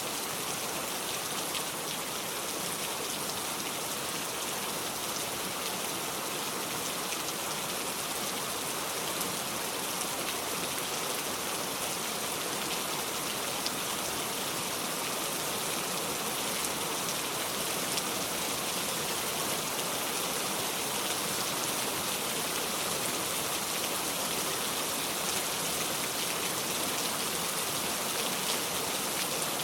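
Steady rain, a dense even hiss with a few faint ticks.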